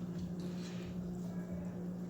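Faint chewing and mouth sounds of eating, mostly in the first second, over a steady low hum.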